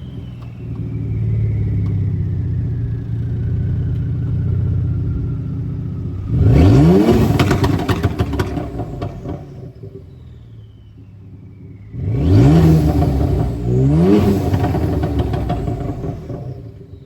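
Kia Stinger GT's twin-turbo V6 exhaust: a low steady rumble, then a hard rev about six seconds in and two more in quick succession near the end, each rising in pitch with a crackle over the top before falling back.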